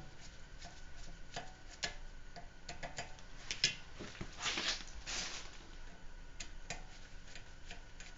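Irregular small metal clicks and taps of a hand tool with a Torx bit, with a short scrape about four to five seconds in, as the rotor retaining screw is driven into its tapered seat.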